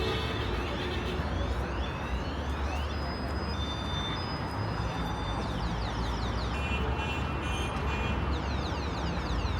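City street ambience: a steady traffic rumble, with clusters of quick high chirps over it, strongest about six seconds in and again near the end.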